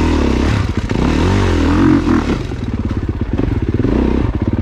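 Dirt bike engine revving up and down as the bike is ridden over trail terrain, then settling into a steady low putter near the end.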